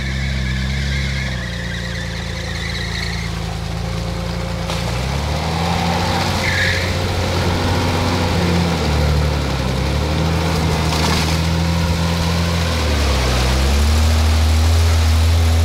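A car engine working under load while driving off-road, its revs dropping and rising several times and growing louder near the end.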